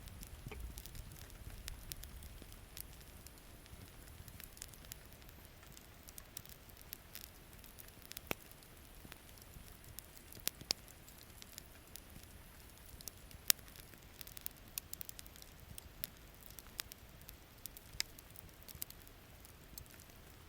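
Campfire wood crackling, with scattered sharp pops over a faint steady hiss of rain. A low rumble fades out over the first few seconds.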